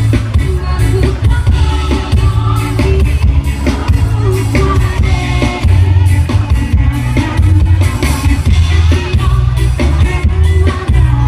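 Live band music with singing played loud through a PA system, with a heavy bass and a steady drum beat.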